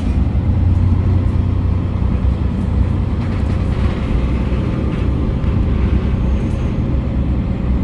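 Futatsuboshi 4047 diesel railcar running at speed: a steady low rumble of engine and wheels on the rails, with one sharp click at the very start.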